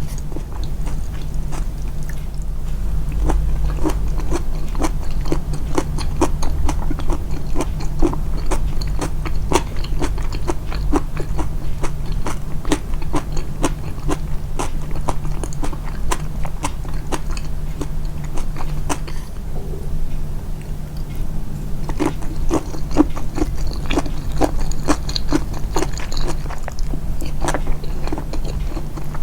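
Close-miked, amplified chewing and biting of food: a run of small wet mouth clicks, about three a second at their busiest, over a steady low hum.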